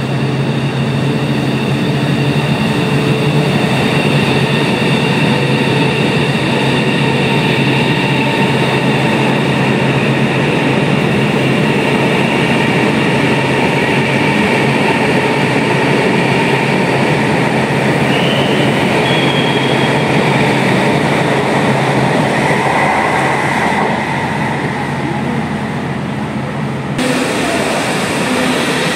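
KCIC Whoosh high-speed electric train (KCIC400AF) pulling out of the station and running past close by. It makes a steady rumble of wheels and running gear, with several steady whine tones over a low hum. The sound changes abruptly about a second before the end.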